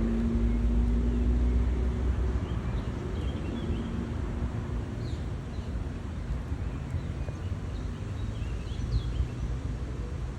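Outdoor ambience: a steady low rumble, with a low hum in the first couple of seconds and a few faint short bird chirps scattered throughout.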